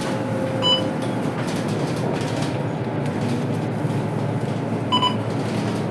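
Scania K230UB city bus heard from inside the cabin while driving: a steady rumble of engine and road noise. Two short, high electronic beeps sound, one under a second in and another about four seconds later.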